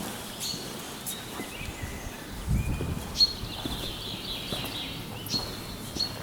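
Birds singing in short chirping phrases, with the odd footstep knock and a brief low thump about two and a half seconds in.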